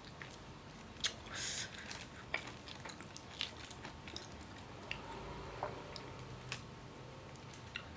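Close-up eating sounds of rice and fried chicken: soft chewing with scattered small clicks and ticks, and a short crunchy rustle about a second in.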